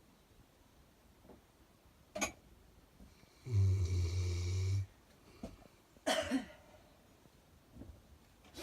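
Sleeping dog snoring: one long, low buzzing snore about three and a half seconds in, lasting just over a second. Brief sharp breaths come before and after it.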